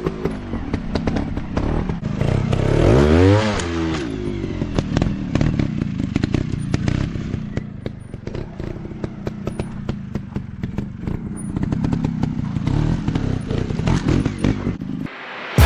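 Kawasaki KLX dirt bike's single-cylinder four-stroke engine revving up and dropping back about three seconds in, then running at lower revs, with frequent knocks and clatter throughout. The engine sound cuts off about a second before the end.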